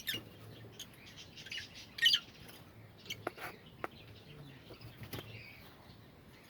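Lovebirds chirping in a breeding colony: a short burst of high, loud chirps about two seconds in, then a few sharp clicks and fainter scattered chirps.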